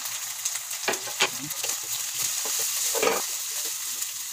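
Sardines, onion and bell pepper sizzling in hot oil in a metal wok while a wooden spatula stirs them, scraping and knocking against the pan, most sharply about a second in and again near three seconds.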